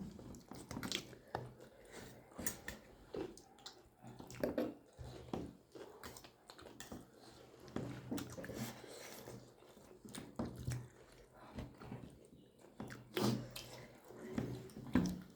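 People chewing and eating momo dumplings, with small wet mouth smacks and clicks at irregular moments.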